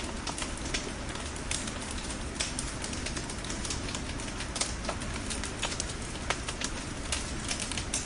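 Bonfire crackling: many sharp, irregular pops of burning logs over a steady rushing hiss.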